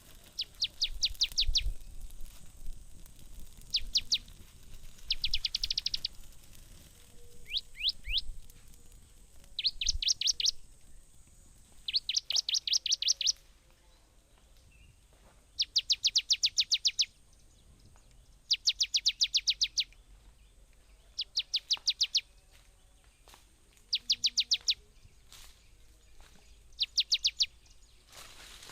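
A songbird singing a repeated rapid trill: about ten phrases of fast, high notes, each phrase lasting roughly a second, with short pauses between them.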